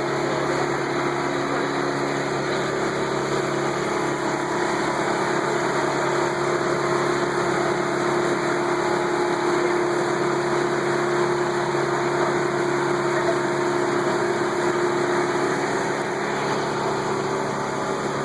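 Boat motor running steadily, its pitch and level even throughout.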